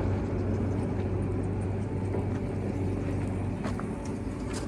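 Diesel engine of a JCB 3DX backhoe loader or of a tractor, running steadily, with a few faint clicks near the end.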